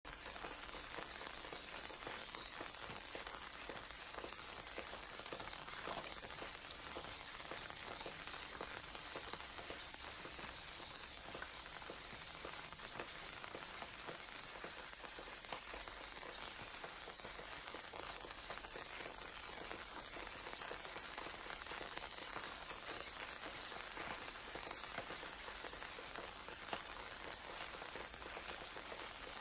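Sliced onions and shredded cabbage frying in hot oil in a nonstick pan: a steady crackling sizzle.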